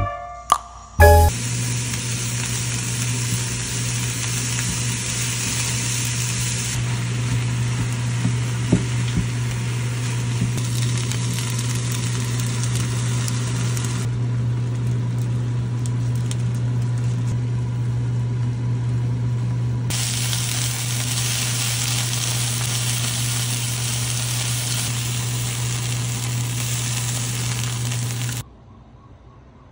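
Food sizzling in a frying pan as rice, mushrooms and milk for a mushroom cream risotto are stirred and mushrooms fry, over a steady low hum. The sizzle gets brighter or duller at a few abrupt changes and stops suddenly shortly before the end.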